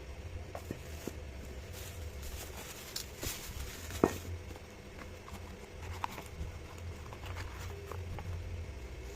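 Scattered light clicks and knocks, like hard objects being handled, over a low steady hum. One sharp knock about four seconds in is the loudest.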